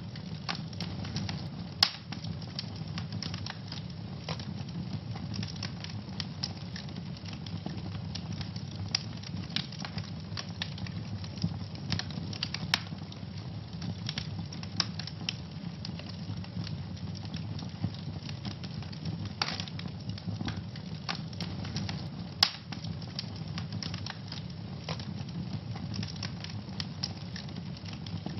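Wood fire burning in a fireplace: a steady low rumble of flames under constant crackling, with a few louder pops.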